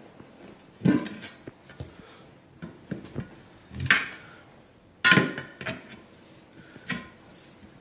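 Pry bar clanking against the wheel rim while the bead of a 16-inch truck tire is levered on by hand: four separate metal clanks, each with a short ring, about a second in, near four and five seconds, and again near seven seconds, the one near five the loudest.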